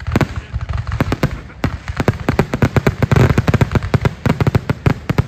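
Rapid barrage of aerial firework shells bursting, many loud bangs a second, running together into a dense stretch around the middle.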